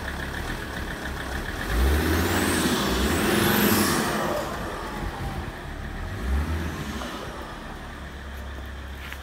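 Alfa Romeo 159's 2.4 JTDm five-cylinder turbodiesel idling, then revved as the car pulls away, with a high whine rising and falling over the loudest stretch. A second short burst of throttle comes about six seconds in before it settles back to a steady idle.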